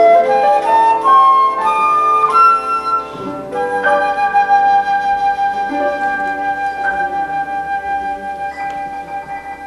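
Flute with piano accompaniment: a quick rising run of notes, then one long held flute note that slowly fades, with another chord coming in near the end.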